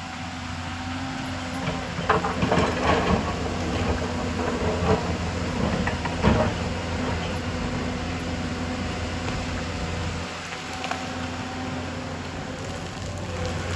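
Excavator's diesel engine running steadily, with a run of metallic clanks and knocks between about two and seven seconds in and another near the end.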